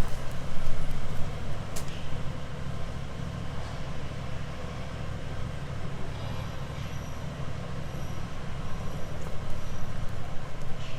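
A motor vehicle's engine running steadily as a low rumble, with a few light clicks of street noise.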